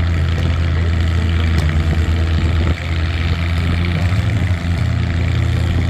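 Cockshutt tractor engine running steadily under heavy load, pulling a tractor-pull sled slowly in first gear, with a brief dip in level near the middle.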